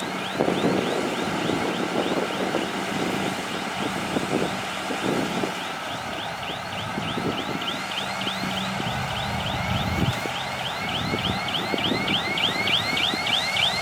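Heavy diesel engine of a working bulldozer running steadily, with irregular knocks and clanks. A rhythmic high-pitched chirp repeats about three times a second, louder in the second half.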